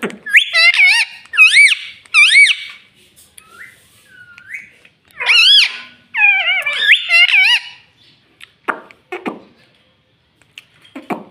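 Parrot making a string of short, high, warbling calls and chatter, with pauses between them.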